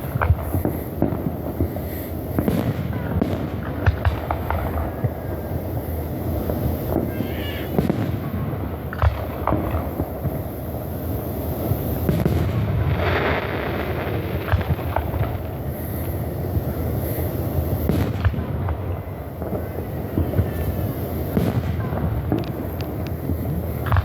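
Fireworks display: aerial shells bursting one after another, sharp bangs at uneven intervals over a continuous low rumble of echoing booms.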